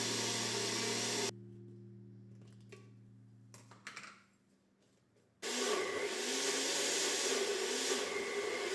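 A small electric kitchen appliance motor running steadily, switched off about a second in, its hum winding down over the next two seconds. After a near-silent pause, a loud steady whirring starts again about five seconds in.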